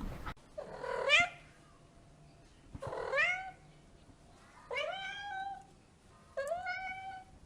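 A cat meowing four times, each call rising in pitch and then levelling off.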